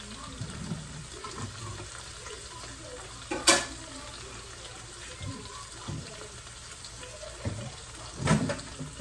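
Kitchen work sounds: a steady hiss throughout, with a sharp clack about three and a half seconds in and a couple of knocks near the end.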